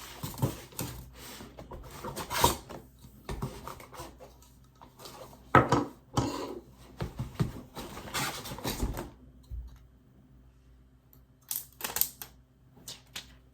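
Packaging being handled: irregular rustling and sharp clicks of paper, plastic and cardboard being moved about. The handling is busy for about nine seconds, then dies down to a few sharp clicks near the end.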